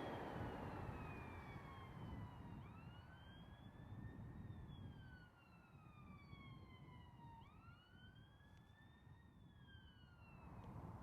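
Faint wailing siren of an emergency vehicle, its pitch sweeping up quickly and then falling slowly, twice. The rumble of a passing train fades away at the start.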